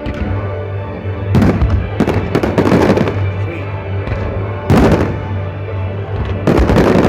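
Fireworks bursting in a run of loud cracks and crackling volleys: about a second and a half in, again around two to three seconds, near five seconds and near the end. Music from the show's sound system plays steadily underneath.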